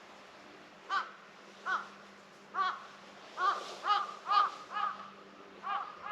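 A bird calling repeatedly outdoors: about nine short calls starting about a second in, coming closer together in the middle.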